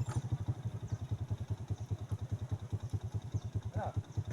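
A small engine running steadily with a rapid low thudding, about eleven beats a second. A brief voice is heard near the end.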